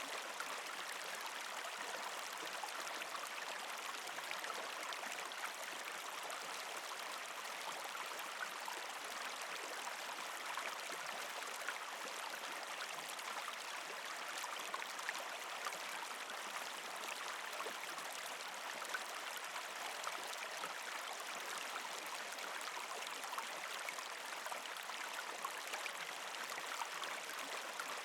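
Water of a partially frozen creek flowing and trickling over rocks, a steady, even gurgle.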